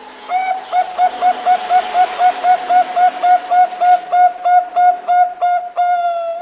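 Zebra dove (Bangkok-type perkutut) calling: a fast, even run of short cooing notes, about three or four a second, ending in one long drawn-out note, over a faint hiss.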